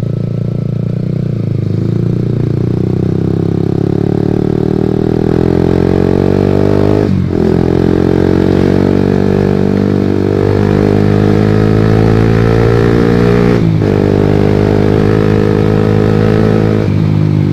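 Honda CB150R's single-cylinder engine through a Pro Liner TR-1 long-can carbon aftermarket exhaust, accelerating under way. Its pitch climbs, drops sharply at a gear change about seven seconds in, climbs again, and drops at a second shift near fourteen seconds.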